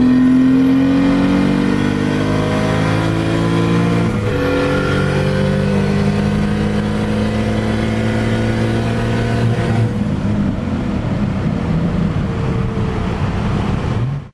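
Turbocharged BMW E30 325's straight-six engine under hard acceleration, heard from inside the cabin: the revs climb, drop with an upshift about four seconds in, then climb again until about ten seconds in, when the engine note gives way to a steady rushing noise.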